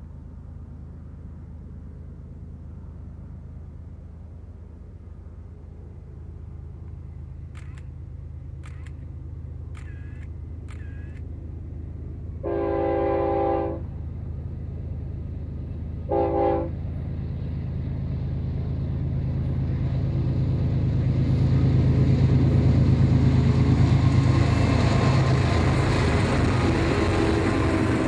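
Freight train approaching, its locomotive's low engine drone building steadily until it passes loud and close. About halfway through, the horn sounds one long blast, then a short one.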